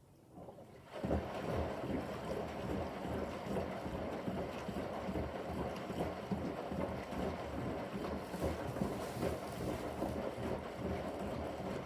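Bosch washing machine drum starting to turn after a pause, about a second in, with water sloshing and splashing around a pillow in the wash; an uneven, churning sound that carries on.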